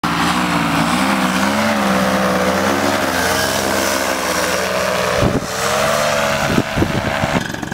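Paramotor engine and propeller running hard, its pitch wavering up and down, with wind buffeting the microphone a few times in the second half.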